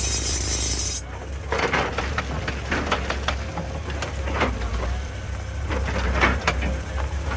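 Excavator's engine running with a steady low hum while stone knocks and clatters irregularly against the machine, rocks being scraped and moved. A loud hiss cuts off suddenly about a second in.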